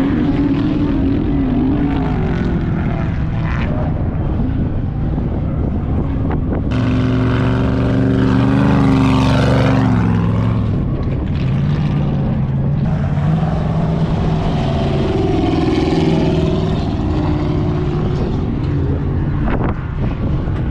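Vehicle engines running continuously, one swelling louder about seven seconds in and falling away again after ten seconds, then another steady engine note.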